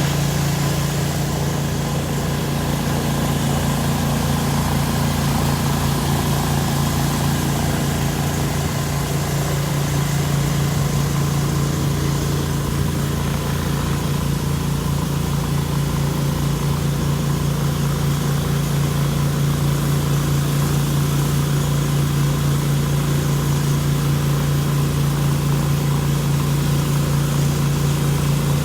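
Pressure washer's gas engine running at a steady speed, with an even, unchanging hum throughout.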